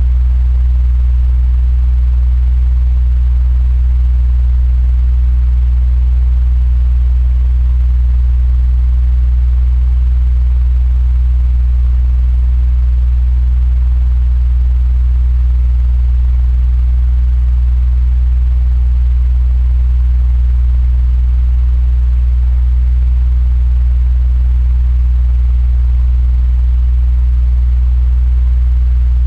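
Electric fan running steadily: a strong low motor hum with a faint, even airy hiss above it.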